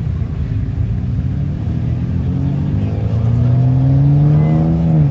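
A performance car's engine accelerating away, its pitch climbing steadily through the gear, then dropping sharply near the end as the revs fall.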